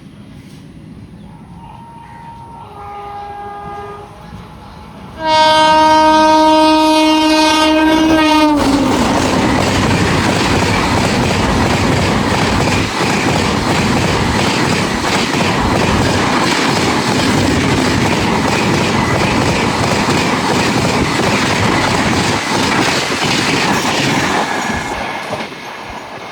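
Indian Railways train horn: a faint chord about two seconds in, then a loud horn blast of about three seconds whose pitch drops as it ends. It is followed by the train rushing past at speed, a long loud run of wheel clatter and rumble that fades near the end.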